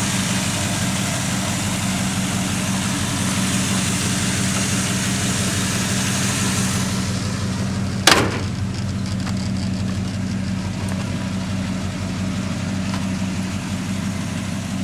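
1968 Oldsmobile 442's Rocket 400 V8 idling steadily through its dual exhaust, a low, even note. There is one sharp knock about eight seconds in.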